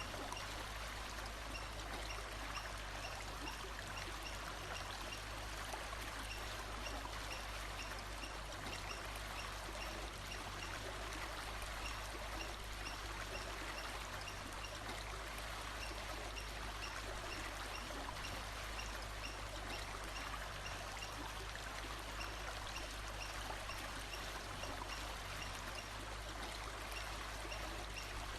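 Steady rushing of flowing water, like a stream, with faint high chirps repeating at an even pace above it.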